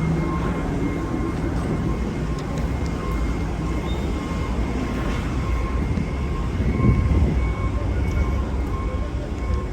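Heavy vehicle engine running with a steady low rumble that swells briefly about seven seconds in, with a faint high tone sounding on and off above it.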